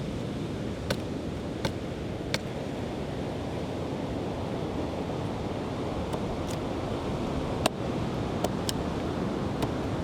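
Steady rush of surf and wind, with a scattering of sharp knocks or taps at irregular intervals; the loudest knock comes about three-quarters of the way through.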